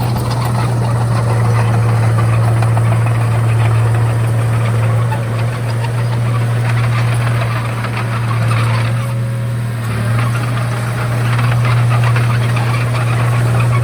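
Komatsu D31A crawler bulldozer's diesel engine running steadily: a deep, even drone with a dense rattle over it.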